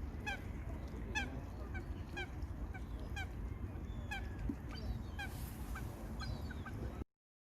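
A flock of waterfowl calling, short nasal calls repeated about once or twice a second, several birds overlapping. The sound cuts off abruptly near the end.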